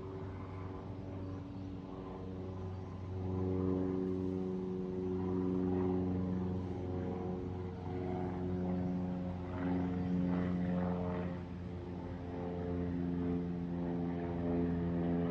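A steady engine drone with a low hum that swells louder and fades back several times.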